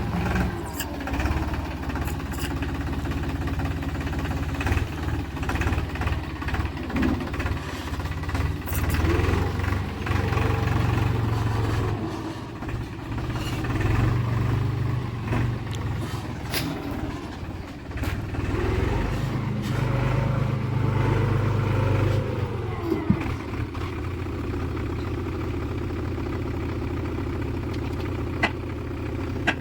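JCB 3DX backhoe loader's diesel engine running and working, its revs rising and falling twice as it takes load. A few sharp knocks come near the end.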